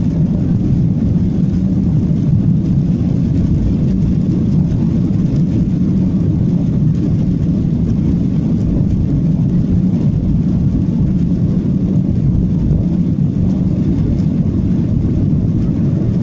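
Steady low rumble of a Boeing 737-800 and its CFM56 turbofan engines, heard from inside the passenger cabin.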